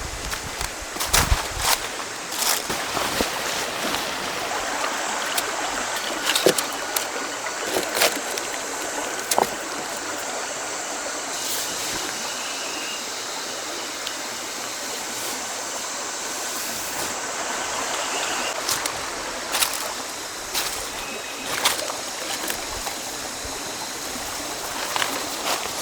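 A river flowing steadily, with scattered sharp clicks and small splashes over it.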